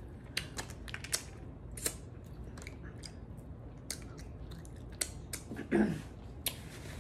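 Close-miked chewing of snow crab: wet mouth clicks and smacks scattered irregularly, with one short hum from the eater near the end.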